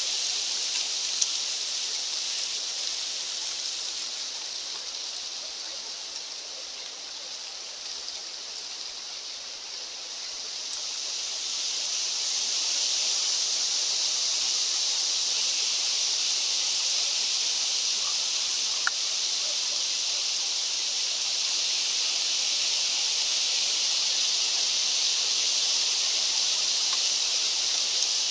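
Wind blowing through mountain trees in a steady hiss that eases off for several seconds, then swells back up about eleven seconds in, with a few faint ticks.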